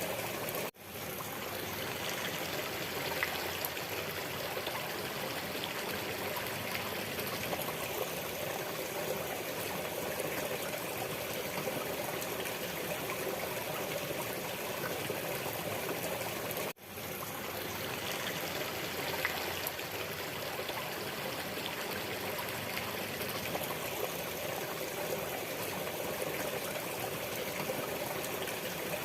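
Waterfall running: a steady rush of falling water. Under a second in and again just past halfway, it drops out for an instant and fades back in, the seams of a repeating loop.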